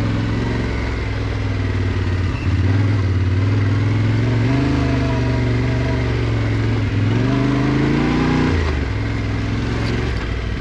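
Yamaha Ténéré 700 Rally's parallel-twin engine running while riding, the revs rising and easing back twice, the second time dropping off about two-thirds of the way through.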